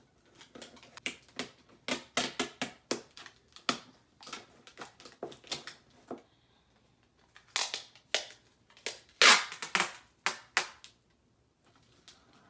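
Cardboard shipping box and packing tape being handled: a run of sharp, irregular crackles, taps and rips, with a longer tearing burst about nine seconds in.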